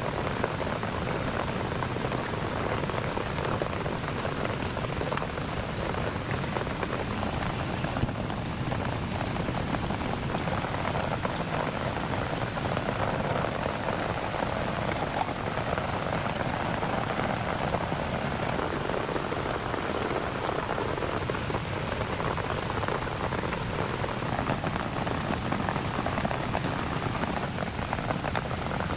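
Heavy rain falling steadily, a dense even patter of drops, with a single sharp tick about eight seconds in.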